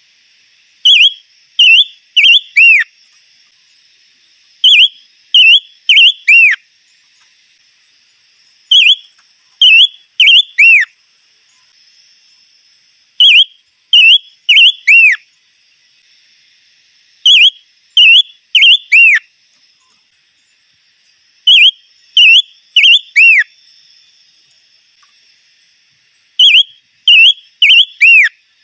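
A songbird's loud whistled song, the bird the title calls the five-colour bird (chim ngũ sắc): seven phrases about four seconds apart, each three short down-slurred whistles and a longer last one that slides down in pitch. A faint steady high hum lies underneath.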